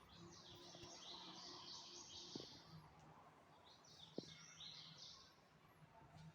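Faint bird song: two bouts of quick high chirps, the second starting a little over a second after the first ends. A single sharp click about four seconds in.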